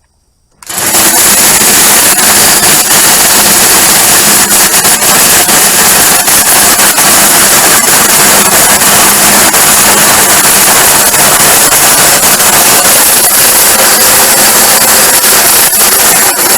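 Hercules electric nibbler punching through sheet steel: a loud, continuous rapid chatter that starts about half a second in.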